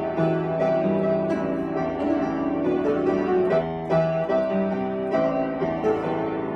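Piano playing a pop-song arrangement: melody over moving chords, with notes and chords changing steadily.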